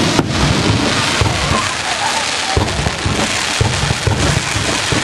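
Fireworks display at close range: a dense crackling sizzle of crackle-effect stars fills the air, with several deep booms of shells bursting about a second apart.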